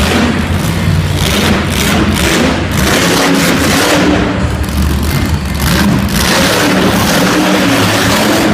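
Monster truck engine revving hard, its pitch rising and falling repeatedly under loud, noisy running.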